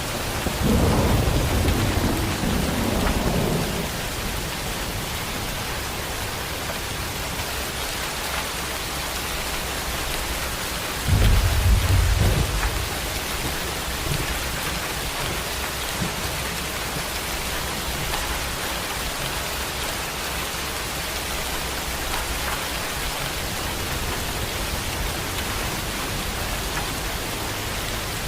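Steady heavy rain pouring, with a thunder rumble about a second in and a second, louder low rumble about eleven seconds in that dies away after a couple of seconds.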